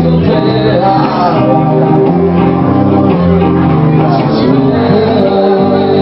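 A live band playing loud music, with guitar.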